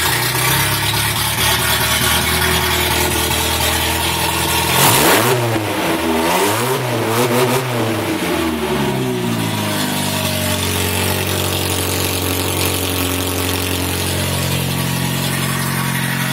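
1955 MG TF 1500's four-cylinder XPEG engine running noisily on straight pipes through a new tubular header with no muffler. It idles, is blipped in two or three quick revs about five seconds in, then settles back to a steady idle.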